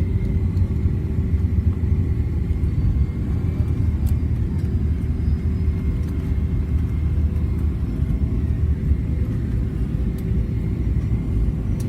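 Steady low rumble inside the cabin of a Boeing 777-300ER rolling on the ground after landing, engine and wheel noise with a faint steady hum over it.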